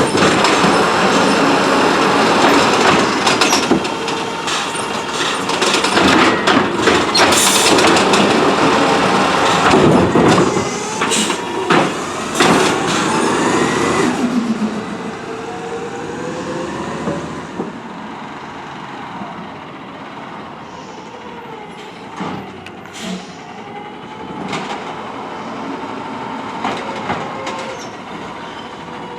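CNG Autocar ACX automated side-loader garbage truck working its arm: loud clatter and banging for about the first fourteen seconds as a cart is dumped into the hopper. After that it drops to a quieter hydraulic whine that slides up and down in pitch as the arm and packer move.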